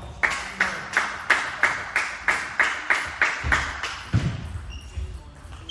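Table tennis rally: the celluloid ball clicking off bats and table about three times a second for some eleven strokes, then two low thuds near the end.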